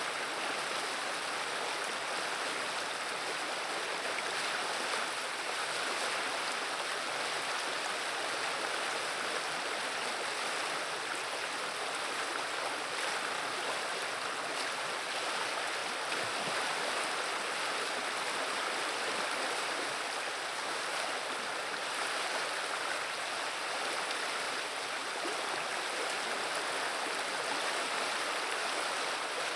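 River water running steadily over a shallow stretch, an even burbling rush that does not change.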